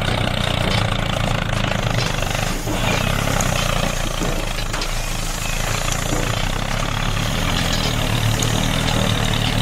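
A heavy vehicle engine running steadily at an even speed.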